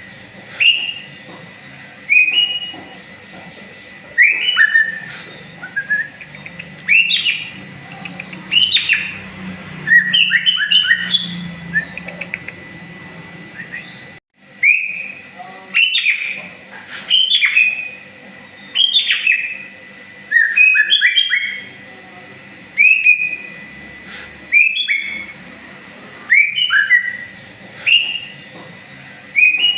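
White-rumped shama (murai batu) singing: short, loud whistled phrases, many sliding down in pitch, repeated every second or two with a brief pause about halfway through.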